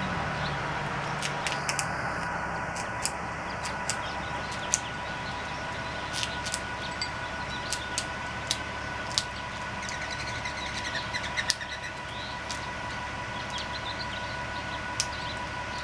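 Birds chirping here and there, with scattered short sharp clicks and ticks, over a faint steady tone.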